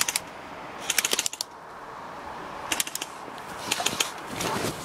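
Clusters of quick, sharp clicks and rattles, four or five bursts of several clicks each.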